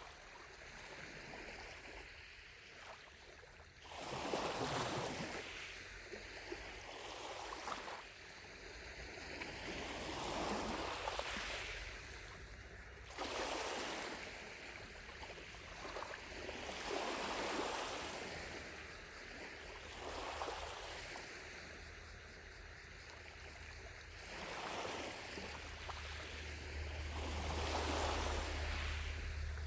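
Small lake waves lapping against the shore, each wash swelling and fading every few seconds. A low rumble comes up near the end.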